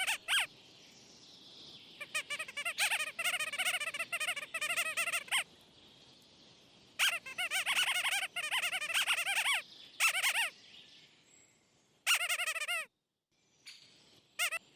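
Bouts of rapid, wavering high-pitched chirping calls, bird-like. There are two long runs of about three seconds each and several short ones, with faint hiss between them.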